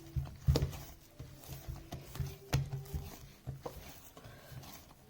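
Hands kneading risen yeast dough on a worktop: irregular soft thumps and slaps, the clearest about half a second and two and a half seconds in.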